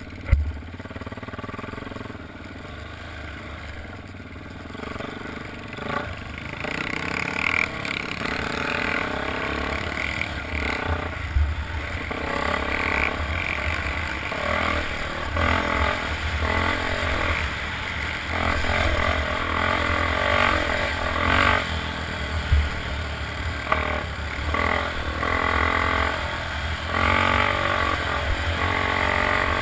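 Motocross dirt bike engines revving, rising and falling in pitch as the bikes ride the track, growing louder about six seconds in.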